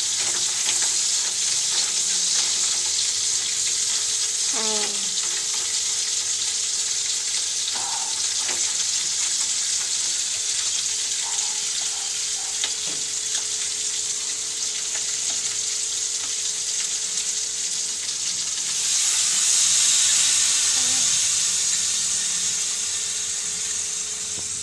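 Pieces of mud crab sizzling as they fry in a stainless-steel wok, stirred now and then; the sizzle swells louder for a few seconds near the end.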